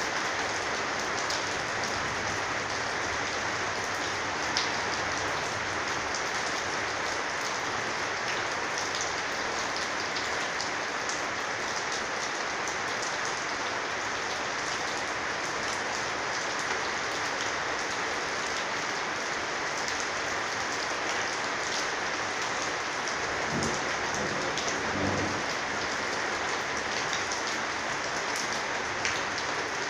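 Heavy rain falling steadily on a corrugated roof, a dense even hiss with scattered drop ticks.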